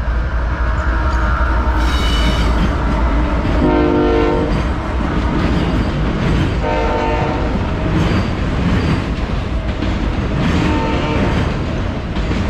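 Diesel-hauled double-stack intermodal freight train rolling past with a steady heavy rumble and wheel clatter. The locomotive's air horn sounds several short blasts: about four seconds in, about seven seconds in, and more faintly near eleven seconds.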